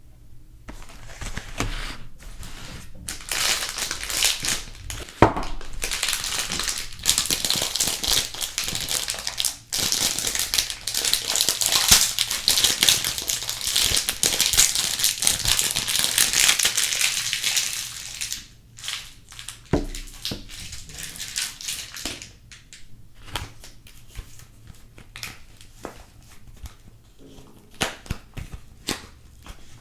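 Soap packaging being unwrapped by hand: dense crinkling and rustling of the wrapper for most of the first two-thirds, then only scattered crackles and light taps.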